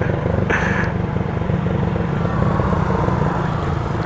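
Motorcycle engine running under way, a steady low throb that holds evenly. A brief higher-pitched sound cuts in about half a second in.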